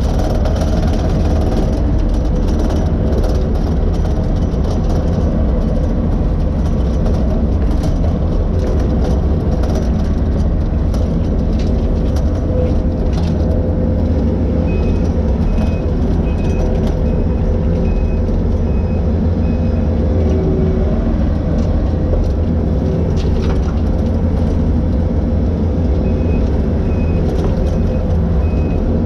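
Skid steer engine running steadily under load, with a faint electronic beep repeating about twice a second in two stretches in the second half.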